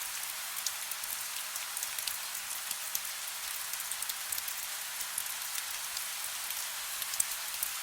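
Soft steady rain: an even hiss with many small scattered drop ticks.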